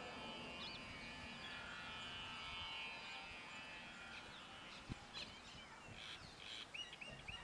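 Faint outdoor ambience of birds chirping. Near the end a bird repeats a short call rapidly, about four times a second.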